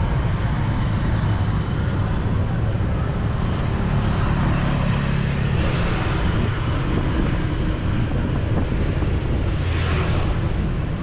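Steady city street traffic heard from a moving bicycle: a continuous low rumble of passing motor vehicle engines and tyres, with wind on the microphone. A louder vehicle passes close about four to five seconds in.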